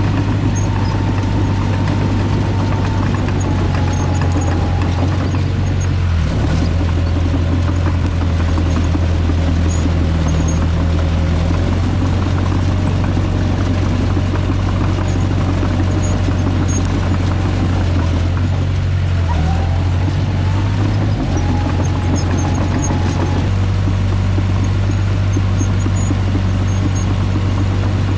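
Tractor engine running steadily while moving dirt, dipping briefly in speed a few times, about six seconds in and twice more near nineteen to twenty-one seconds, with a faint whine above the engine.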